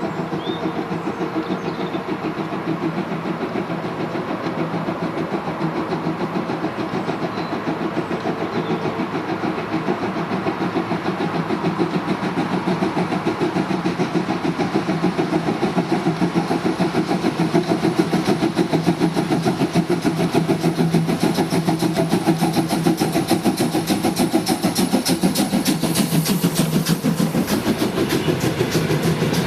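Railway locomotive working a train on the incline: a steady, rapidly pulsing engine sound that grows slightly louder, with sharper wheel and rail clicks coming in near the end.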